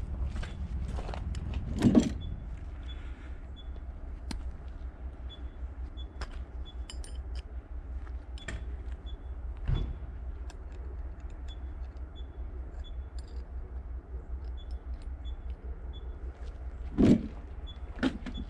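Scattered clinks and knocks of hand work on metal over a steady low rumble, with a few louder knocks about 2, 10 and 17 seconds in, as a stuck part is worked at.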